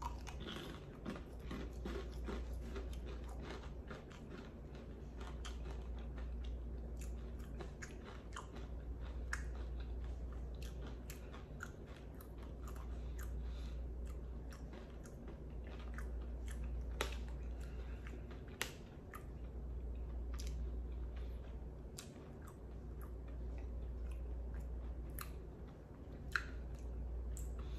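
A mouthful of flavoured popcorn being bitten and chewed close to the microphone: many small crisp crunches and mouth clicks, over a low hum that swells and fades every few seconds.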